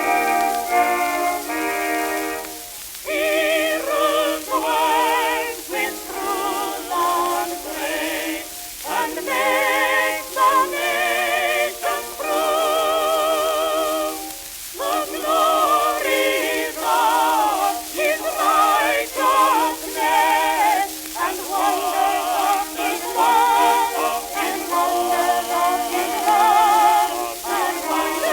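Early acoustic-era shellac record playing: a singer with strong vibrato, the sound thin and cut off below and above the voice range, with surface hiss and crackle from the disc throughout.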